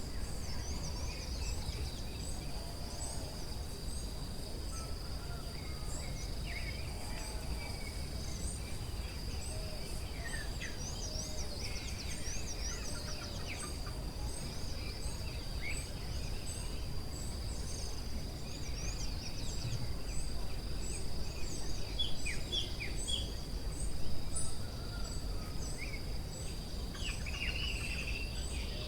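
Forest ambience: birds calling over a steady high insect drone, with a short high chirp repeating about once a second and a low rumble underneath. One louder call stands out about three-quarters of the way through.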